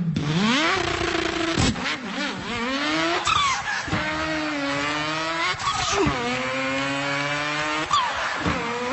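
A man imitating a car engine with his voice, accelerating through the gears: the pitch climbs, drops sharply at each shift and climbs again, several times.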